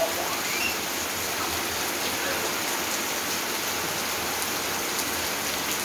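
Steady rain falling hard, an even hiss of raindrops hitting the ground.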